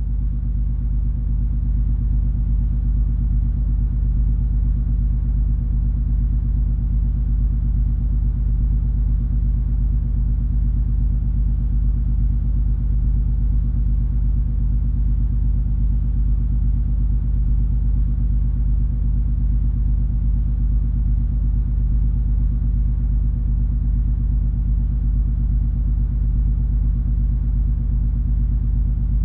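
MS Color Fantasy cruise ferry under way: its engines and hull give a steady, deep rumble with an even low drone, unchanging throughout.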